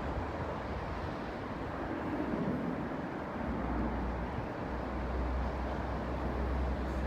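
Steady distant engine rumble, with a deep low rumble that grows stronger about halfway through.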